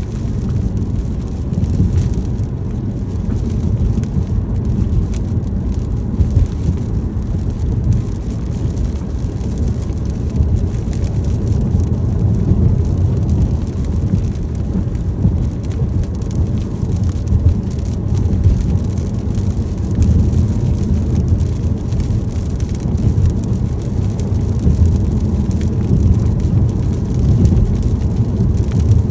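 A car driving in the rain: a steady low road-and-engine rumble with the fine patter of raindrops on the car.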